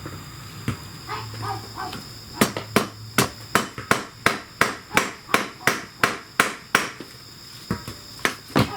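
A hammer striking metal in a steady run of about a dozen evenly spaced blows, about three a second, starting a couple of seconds in, followed by a few more blows near the end.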